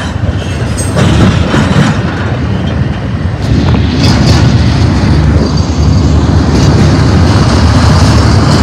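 Intermodal freight train's double-stack well cars rolling past on the rails: a loud steady rumble of wheels on track, with occasional clacks as the wheel sets go by.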